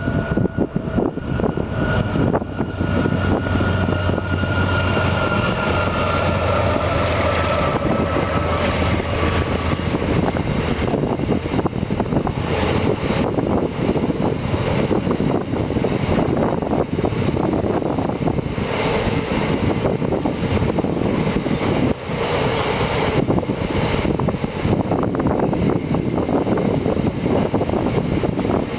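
Diesel locomotives hauling a loaded fertiliser train over a narrow-gauge rail viaduct. For the first ten seconds or so the engines' drone sinks slightly in pitch, then fades. It gives way to the steady rumble and clatter of loaded hopper wagons rolling across the bridge.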